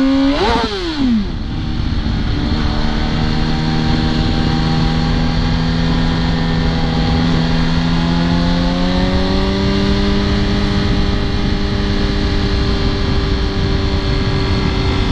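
Yamaha R1 motorcycle's inline-four engine under way. It revs up sharply and drops back in the first second or so, then runs at a steady pitch, pulling up a little higher about eight to nine seconds in.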